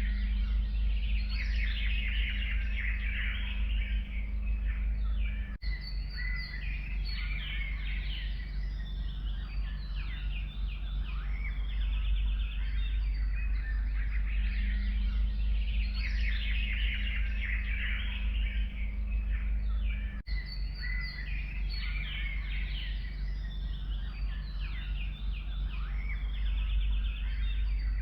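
Several forest songbirds chirping and singing in a dense, overlapping chorus over a steady low rumble. The sound cuts out for an instant twice, about fifteen seconds apart.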